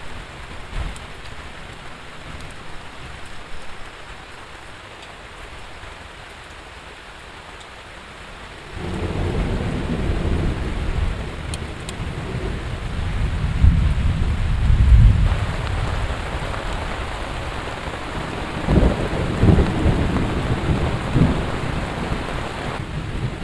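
Heavy rain falling steadily. About nine seconds in, a long roll of thunder rumbles in, loudest around the middle, with further rumbles near the end.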